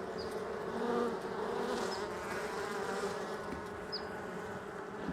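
Honey bees buzzing in a steady hum around an open hive.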